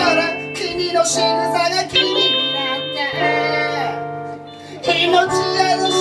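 Live band music: guitar playing, with a voice singing over it.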